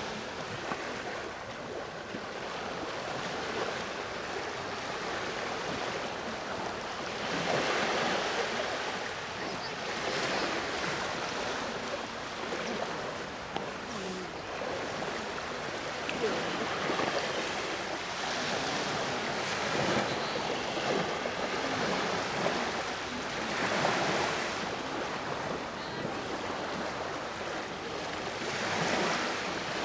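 Sea waves breaking and washing on the shore, in swells every few seconds over a steady surf hiss.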